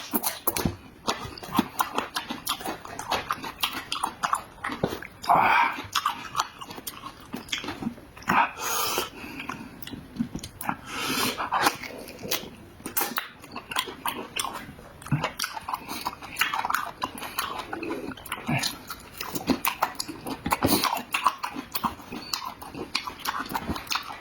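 Close-miked mouth sounds of someone eating: wet chewing, lip-smacking and slurping in quick, irregular clicks, with a few short vocal noises between bites.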